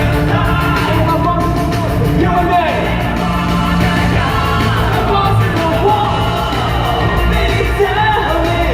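Live music: a singer performing a song over a loud band or backing track.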